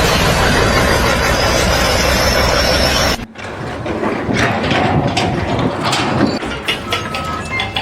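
A loud machine engine running steadily with a low hum, cut off abruptly about three seconds in, followed by scattered clanks and knocks of mechanical work.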